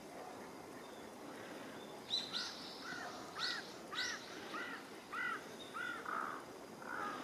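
A wild bird calling: a few sharp high notes, then a run of about seven short arched notes, about two a second, over a steady outdoor background hiss.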